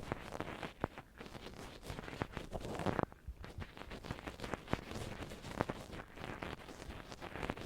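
Ear pick scratching and scraping close to the microphone, with irregular sharp clicks and rustles.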